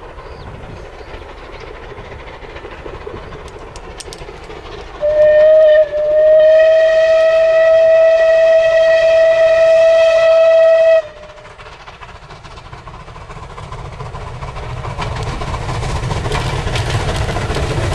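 Steam locomotive whistle: a short toot, then a long steady blast of about five seconds, over a background hiss. A rumble builds steadily toward the end.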